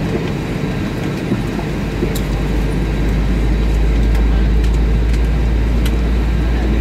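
Cabin noise inside an Airbus A320 on the ground before takeoff: a deep, steady rumble that grows louder about two seconds in, with a few light knocks.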